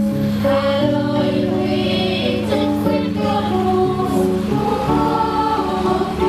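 Choral music: several voices singing held notes together, the chords moving every second or so.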